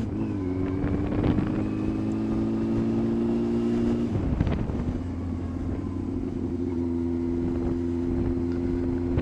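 Yamaha FZS600 Fazer's inline-four engine running steadily under way, heard from the pillion seat, its note dipping briefly just after the start and again about four seconds in.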